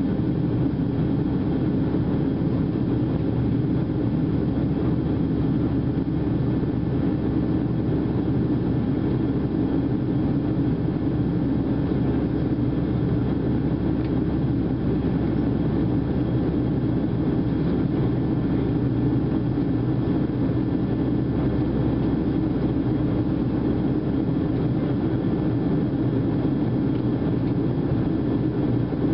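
Steady cabin noise inside a Boeing 737-700 in flight: its CFM56 jet engines drone and air rushes past the fuselage, an even low rumble with a few faint steady tones above it.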